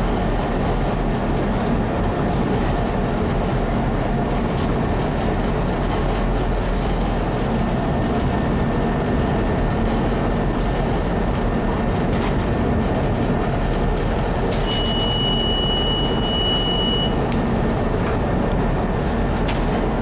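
Chicago L rapid-transit train running along the track, heard from inside the car as a steady rumble with occasional clicks from the rails. About three-quarters of the way in, a single high steady tone sounds for a couple of seconds.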